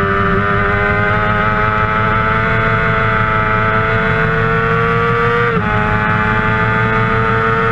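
Kawasaki 600cc inline-four sportbike engine running at high revs under full throttle, its pitch climbing slowly. About five and a half seconds in the pitch dips sharply and picks up again: a quick upshift.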